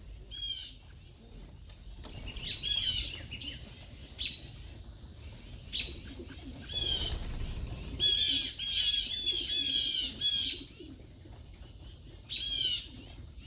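Wild birds giving repeated bursts of short, high, falling alarm calls, in clusters with gaps between, the busiest stretch a little past the middle: the mobbing calls of small birds harassing a perched owl.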